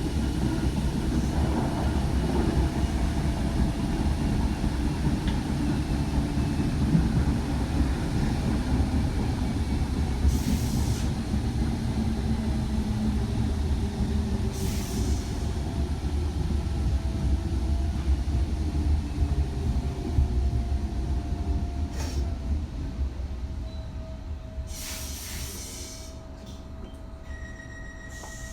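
Train running on the rails with a steady low rumble and some wheel squeal, broken by three short bursts of hiss. The rumble fades gradually over the last few seconds.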